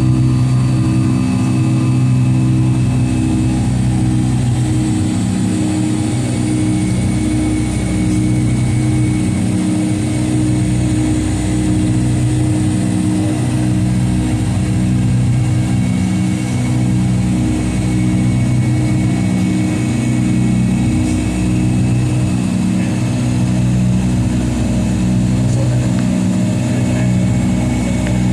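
Cabin noise inside a Boeing 757-251: a steady engine drone with several low hums that pulse slowly and regularly in and out.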